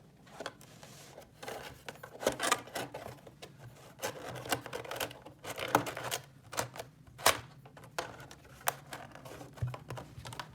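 Small plastic toy pieces being handled and clicked together: irregular sharp clicks and taps with soft rustling in between.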